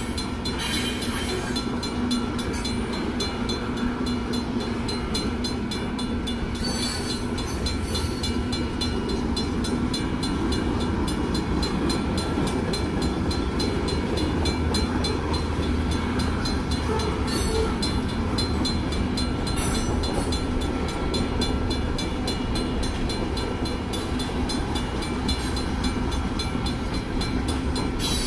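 Long freight train of hopper cars and boxcars rolling steadily through a grade crossing, steel wheels running on the rails. The crossing's Safetran mechanical bell rings over it, striking in a steady rhythm.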